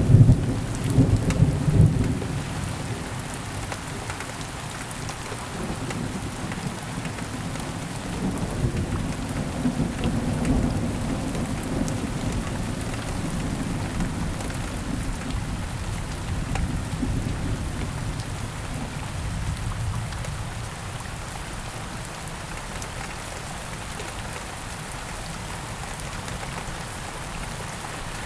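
Heavy rain pouring steadily, with thunder rumbling loudest in the first two seconds and rolling again about eight to twelve seconds in, fading away after that to rain alone.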